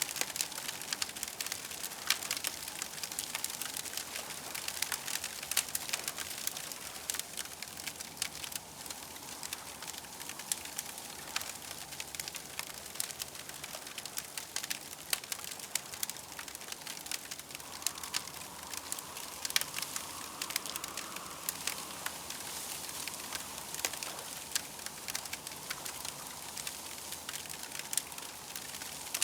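Campfire crackling, with frequent sharp pops and snaps over a steady hiss. A faint wavering tone swells and fades a little past the middle.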